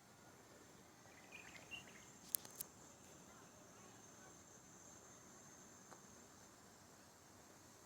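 Faint, steady high-pitched trilling of crickets. A few brief chirps come about a second and a half in, then two sharp clicks close together.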